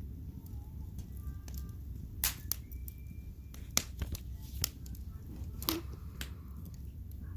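Wood fire crackling in a fireplace: a low steady rumble of the flames with scattered sharp pops and cracks from the burning logs, the loudest about two seconds in and just before the four-second mark.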